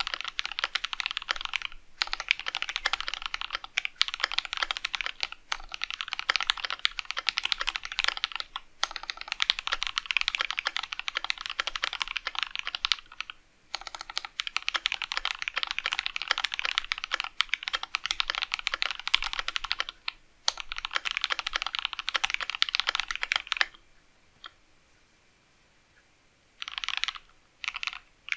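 Fast typing on a KBD67 MkII keyboard with Alpaca linear switches: a dense, even clatter of keystrokes in long runs with brief pauses. The typing stops for a couple of seconds near the end, then resumes in a few short bursts.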